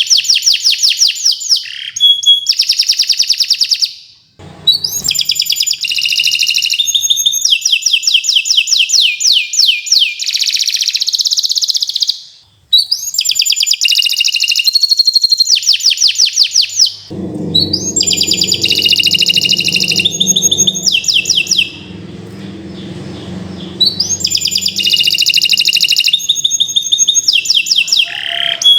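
Domestic canary singing a long, continuous song of rapid trills and rolls, in phrases broken by short pauses about 4 and 12 seconds in. A low rumble sits under the song for a few seconds past the middle.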